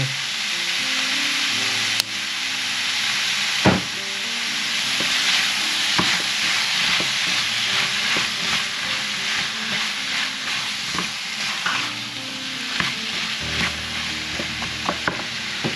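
Sliced bitter melon and tomatoes sizzling in a frying pan while a spatula stirs them, with a scatter of sharp clicks as the spatula knocks against the pan.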